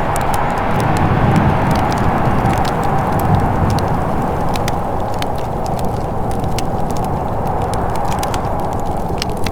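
Wood fire crackling in a fireplace, with irregular sharp pops and snaps over a steady low rushing noise.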